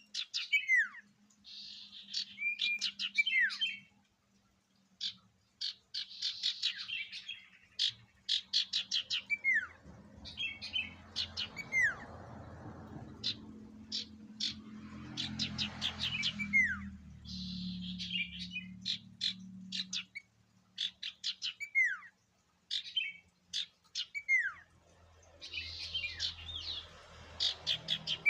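Sirtu (common iora) singing: repeated phrases of rapid sharp chip notes and buzzy trills, each ending in a whistle that slides down in pitch. A low hum sits under the song for several seconds in the middle.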